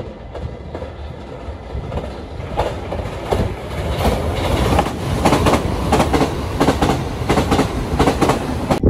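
Limited-express electric train passing through the station at speed, growing louder as it approaches and runs beneath, wheels clacking rapidly over the rail joints.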